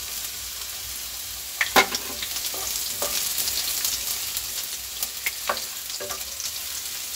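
Chopped ginger and garlic sizzling in hot oil in a kadhai, stirred with a wooden spatula that knocks and scrapes against the pan several times, the sharpest knock about two seconds in.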